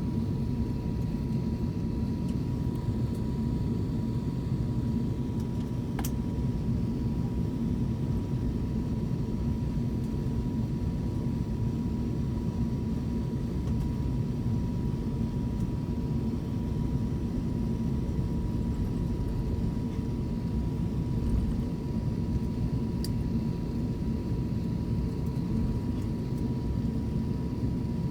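Cabin noise of an Airbus A350-900 taxiing after landing: a steady low rumble from its Rolls-Royce Trent XWB engines at idle and the rolling airframe, with a thin steady whine over it. There are two faint clicks along the way.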